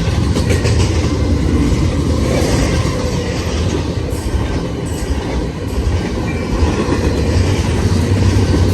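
Freight cars of a long train rolling past at speed: a steady low rumble of wheels on rail, with scattered clicks from the wheels crossing rail joints.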